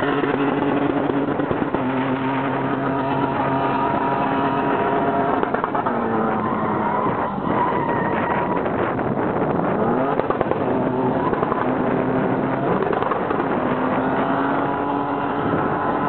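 SUV drifting, its engine held at high revs with the pitch sliding up and down as the throttle is worked, over the tyres squealing as they spin.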